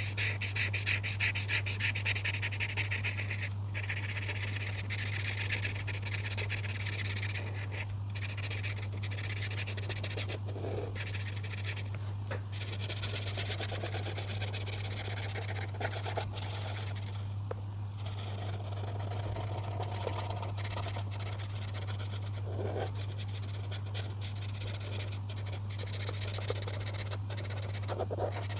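Colouring strokes scratching on paper in repeated back-and-forth passes, over a steady low hum.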